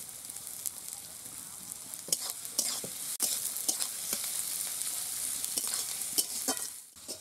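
Diced potatoes and onions sizzling in hot oil in a metal wok, with a metal spatula clinking and scraping against the pan as the filling is stirred. The sizzle dips briefly near the end.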